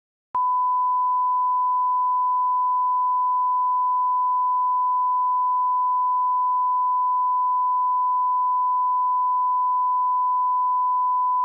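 Steady 1 kHz sine-wave line-up tone at the −18 dB reference level, starting about a third of a second in and holding one unchanging pitch and level.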